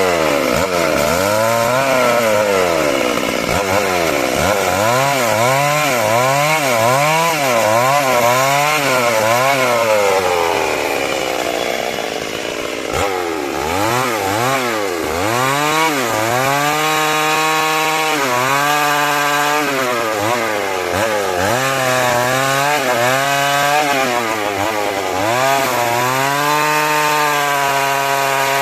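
Two-stroke chainsaw cutting wood, its engine speed rising and falling about once a second. Midway the engine slows for a couple of seconds, then revs back up and holds high speed for longer stretches.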